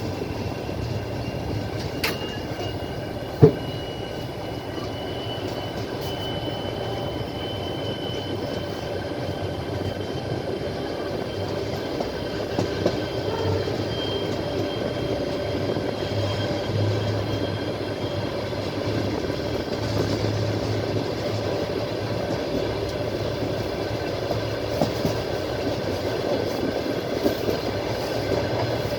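Passenger train running along the track, heard from the carriage window: a steady rumble and rush with the wheels clicking over the rail joints, and a sharp knock about three and a half seconds in. A faint high tone sounds through the first half.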